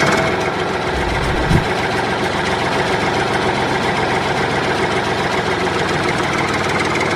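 An engine idling steadily, with a fast, even chug, and one brief low thump about one and a half seconds in.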